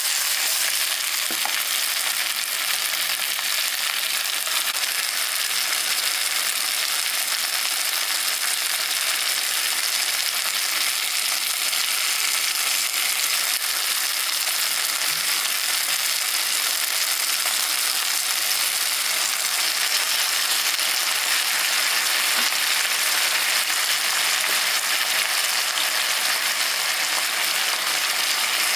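Chopped vegetables sizzling steadily in a non-stick wok on the stove: an even, unbroken frying hiss.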